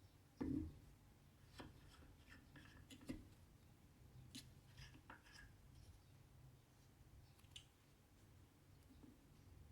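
Faint, scattered clicks and short scratchy ticks of hand cross-stitching: the needle popping through the stiff cross-stitch fabric and cotton thread drawn through it. There is a soft thump about half a second in.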